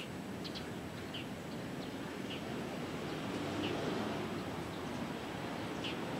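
A small bird chirping, short high calls about once a second, over a steady low background rumble.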